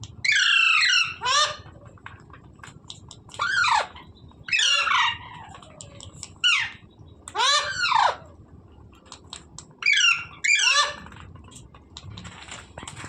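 A parrot squawking: a string of about eight loud, harsh calls, each falling in pitch, with short pauses between them.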